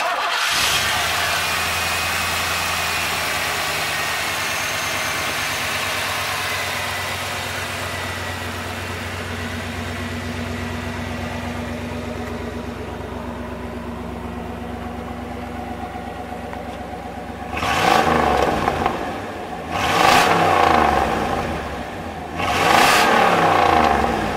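1992 Pontiac Firebird Formula's 5.0 L TPI fuel-injected small-block V8 idling steadily, then revved three times near the end, each rev rising and falling back to idle about two and a half seconds apart.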